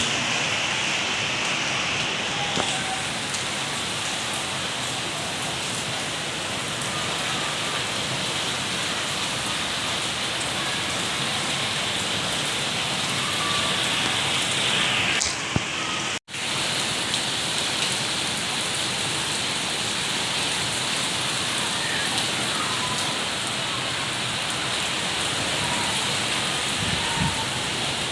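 Steady heavy rain falling and pattering on surfaces, cut off abruptly for a moment about sixteen seconds in before it resumes.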